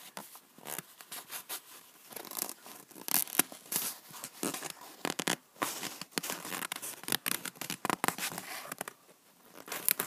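Peeling a sticker off a paper sticker sheet: irregular ripping, scraping and crinkling of paper, in short bursts with brief pauses.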